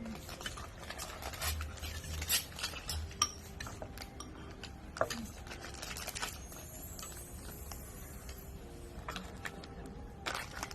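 Dishes and cutlery clinking and clattering, with scattered light clicks at uneven intervals.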